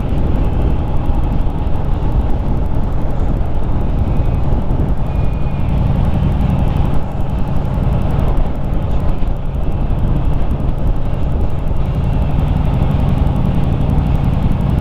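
Harley-Davidson Street Rod 750's V-twin engine running steadily on the move, with heavy wind noise on the microphone.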